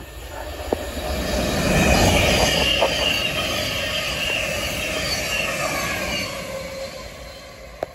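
Thameslink Class 700 electric multiple unit running through the station at speed. Its rush of wheels and motors with a high whine builds over the first two seconds, holds, and fades away near the end, with a few sharp clicks.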